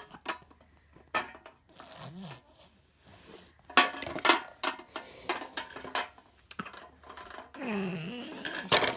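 Toy blocks clattering and knocking as they are loaded into a toy truck: a scattered series of short, sharp knocks and clicks, busiest around the middle.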